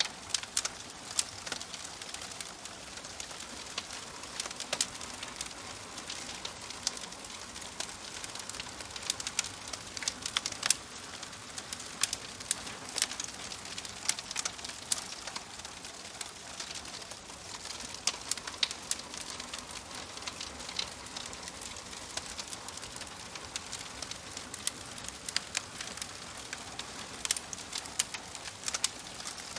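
Fireplace fire crackling: irregular sharp pops and snaps, several a second at times, over a steady soft hiss.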